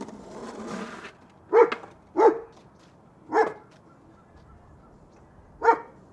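A dog barking: two quick barks, a third about a second later, and a fourth near the end.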